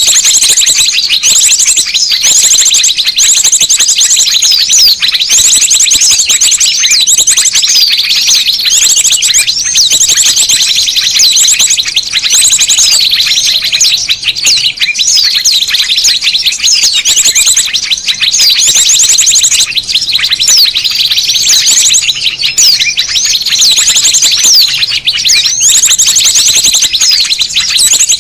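Many small songbirds calling together in a loud, dense chatter of overlapping rapid chirps and trills, a noisy bird-lure recording of the kind played to draw small birds in.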